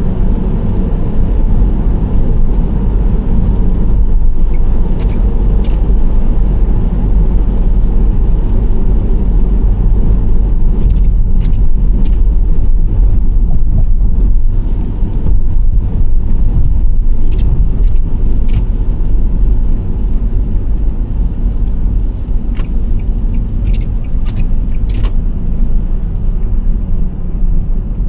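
Nissan Serena C25 minivan cruising, its tyre and engine noise a loud, steady low rumble. Short, sharp ticks come through now and then over the top.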